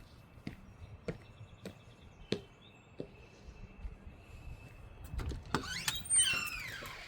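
Footsteps at a walking pace, about one sharp step every 0.6 s, with high sliding chirps near the end.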